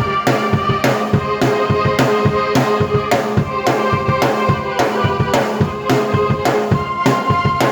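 Drum kit and keyboard played together in an instrumental piece: a steady beat with strong hits about twice a second under sustained keyboard tones that sound string-like.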